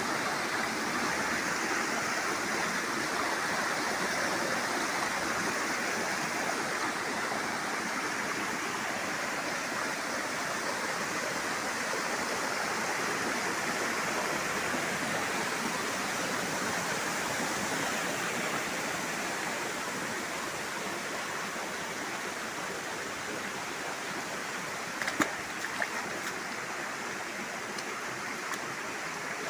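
Steady rushing of a river waterfall, the water of the falls pouring over rock. A few sharp clicks stand out near the end.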